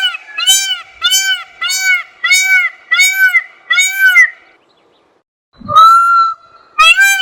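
An animal calling in a series of short, evenly spaced honks, about seven in a row; after a pause of about a second, a long rising note is held and the honking series starts again.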